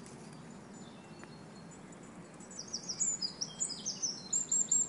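A songbird singing in woodland: starting about halfway through, a quick run of short, high, falling chirps, ending in a few rapid repeated high notes, over a faint steady outdoor hiss.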